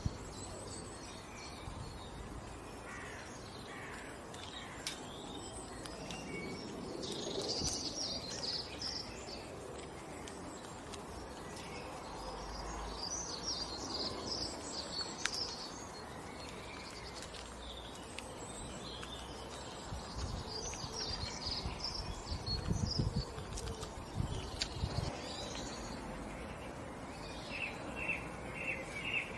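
Wild birds chirping and singing over steady outdoor ambience, with a few soft low thumps about two-thirds of the way through and a fast repeated chirp near the end.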